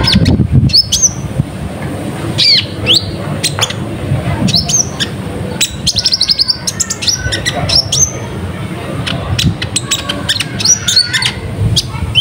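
Kolibri ninja (konin) sunbird calling in an excited, continuous chatter, used as a lure call: a dense run of short high chirps and quick downward-sweeping notes, with sharp clicks in between.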